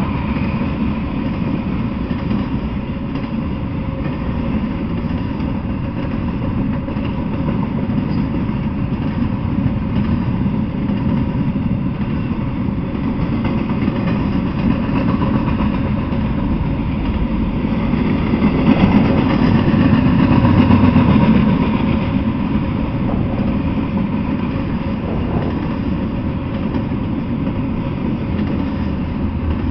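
Intermodal freight train rolling past, its well cars and flatcars loaded with containers and trailers: a steady rumble of wheels on rail, swelling louder for a few seconds past the middle.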